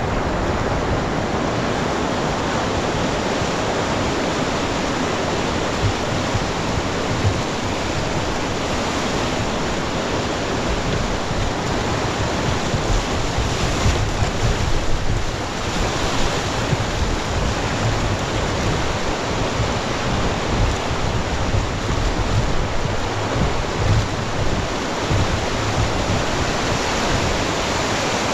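Rogue River water rushing in a steady, loud wash, with wind buffeting the microphone in uneven low gusts.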